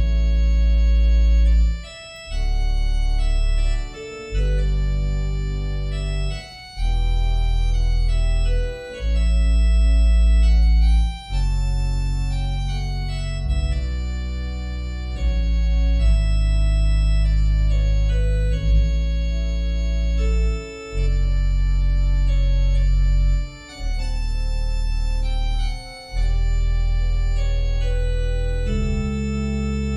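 Organ playing slow sustained chords over a deep bass line, the chords changing every two seconds or so with short breaks between them.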